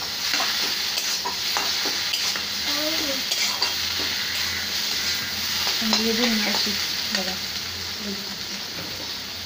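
Kochu shak (chopped taro-leaf greens) frying in oil in a kadai: a steady sizzle with scattered clicks and scrapes of stirring.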